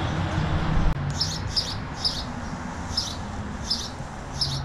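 A small bird chirping: about six short, high chirps, starting about a second in and repeating every half second to a second, over a low background rumble.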